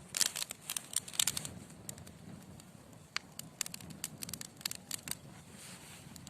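Wood logs burning in a fireplace, crackling and popping over the low rumble of the flames. A quick cluster of pops comes in the first second and a half, then scattered single pops.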